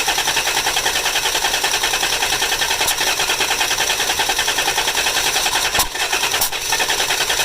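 1988 Dodge Dakota's 3.9-litre V6 cranking on the starter without catching, a steady rhythmic churn with a brief break about six seconds in. The engine won't start after a valve cover gasket job, though spark and injectors check out.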